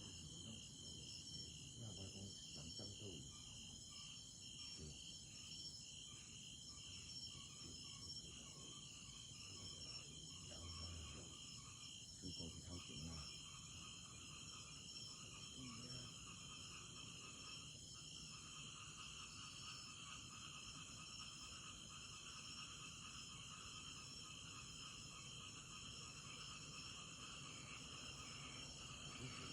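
Faint insects, likely crickets, chirping steadily in a fast pulsing trill, with a faint low murmur beneath.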